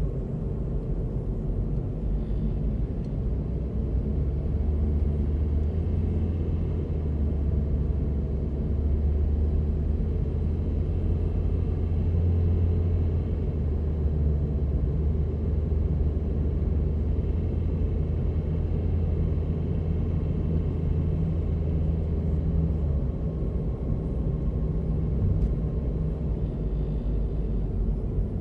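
Steady low rumble of a 2004 Toyota Prius in use, heavier from about four seconds in until a few seconds before the end.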